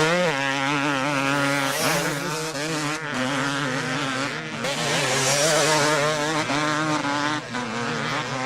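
Several motocross motorcycle engines revving together, their pitch wobbling up and down with throttle and gear changes as the bikes race around the track.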